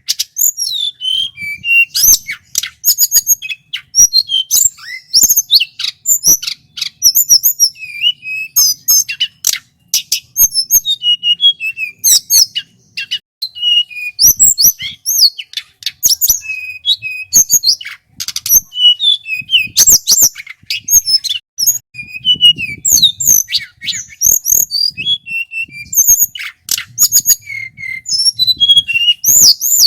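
Male tledekan gunung (hill blue flycatcher) singing a loud, varied song of quick high whistles and chirps, note after note with hardly a pause.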